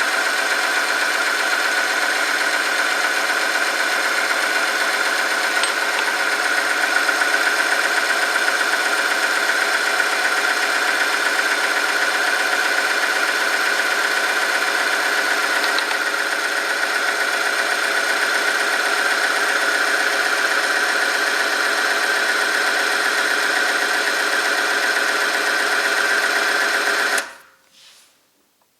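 Oil film strength test machine running under load, its motor-driven shaft rubbing the steel test sample in engine oil heated to 100°C: a steady, loud mechanical whine and drone that cuts off suddenly near the end as the machine stops.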